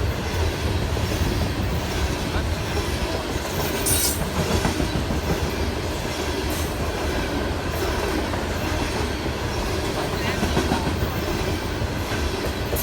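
A train rolling past, its cars rumbling steadily with wheels clacking over the rail joints, and a brief sharp high screech or clank about four seconds in.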